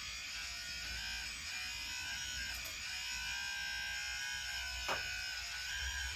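Small electric motors and gearboxes of RC construction models whining steadily, their pitch rising and falling with the throttle, with one sharp knock about five seconds in.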